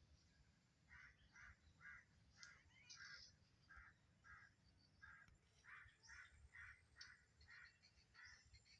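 Rufous treepie calling: a long run of short, rough notes, about two a second, starting about a second in, with fainter higher notes mixed in.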